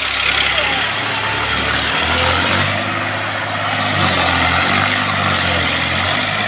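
Tractor's diesel engine running hard under a dense hissing noise. Its note steps up about two seconds in and then wavers up and down.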